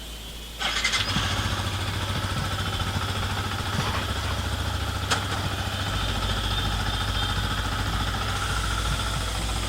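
Yamaha MT-15's single-cylinder engine starting up about half a second in, then idling steadily.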